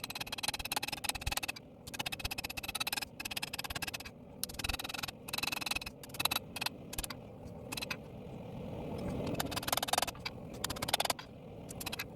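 Hammer striking hot steel on an anvil in quick bouts of rapid blows with short pauses between, the steel ringing under the blows.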